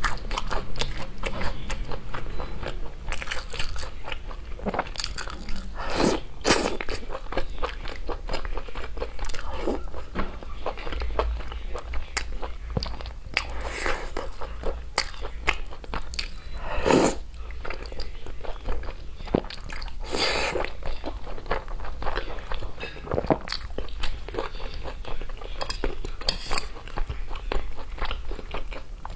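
Close-miked chewing and biting of red-braised pork belly, a dense run of irregular wet crunches and clicks with a few louder bites.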